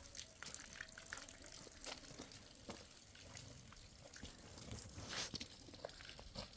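Faint, irregular water drips and light clicks.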